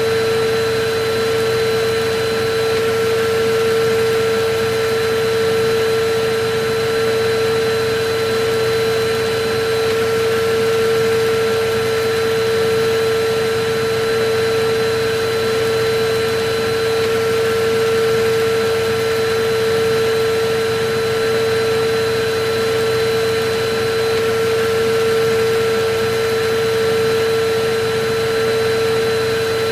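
Electric vacuum cleaner running steadily: a constant motor hum with a fainter higher whine over an even rush of air, unchanging throughout.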